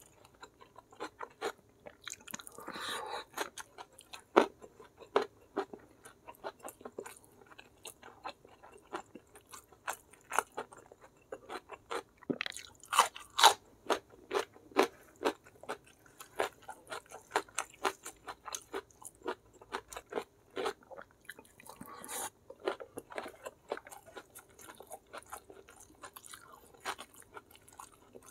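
Close-miked eating: a person chewing and biting food, with irregular crunching and crackling bites, some louder than others, throughout.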